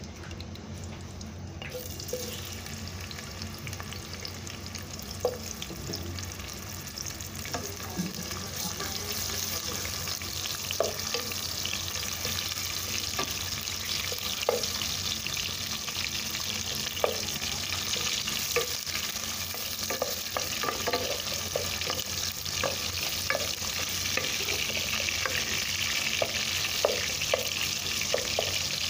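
Sliced ginger sizzling in hot cooking oil in a pot, with scattered light knocks of a wooden spatula stirring against the pot. The sizzle sets in about two seconds in and slowly grows louder.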